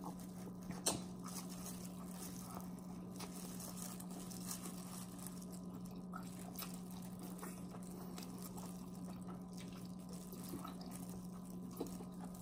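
Faint chewing and mouth sounds of a person eating seasoned seafood-boil food, with a few soft clicks, the clearest just under a second in, over a steady low hum.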